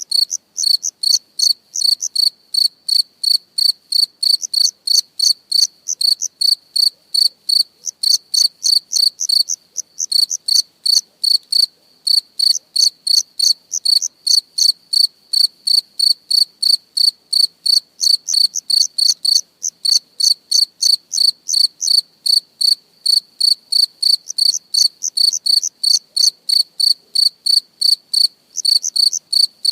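Cricket chirping steadily on one high note, about three chirps a second, with a few brief pauses.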